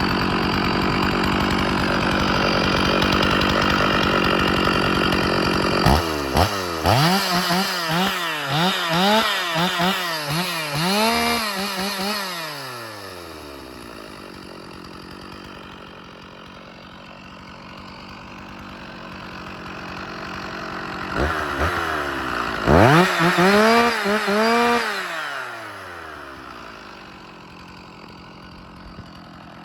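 Stihl 046 Magnum two-stroke chainsaw running at high speed. It is then revved in a string of quick throttle blips, each rising and falling in pitch, before dropping to a steady idle. Later it is blipped a few more times and settles back to idle.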